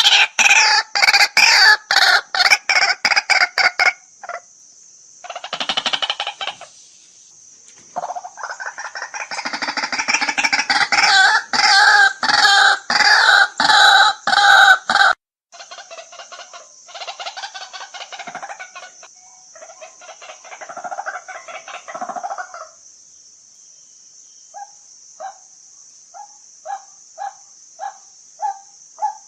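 White-breasted waterhen calling: long runs of loud, rapidly repeated croaking notes, densest in the middle, thinning to single notes about two a second near the end.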